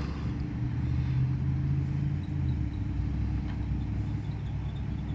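An old car's engine running at idle, steady and low, with a small drop in pitch about two seconds in.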